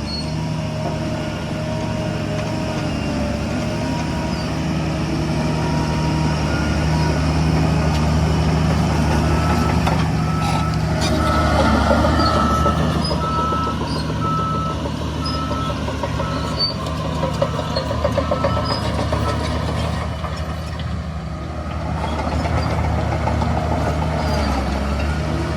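Heavy diesel engines of construction machinery running steadily, with a vehicle's reversing alarm beeping at an even pace for several seconds in the middle.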